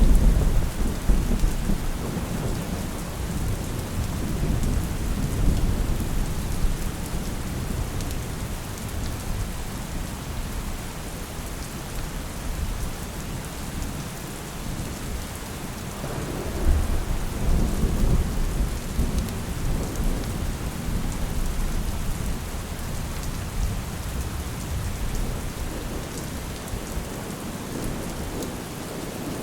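Steady rain with rolling thunder. A loud thunderclap right at the start rumbles on for several seconds, and a second roll of thunder swells about sixteen seconds in and fades away.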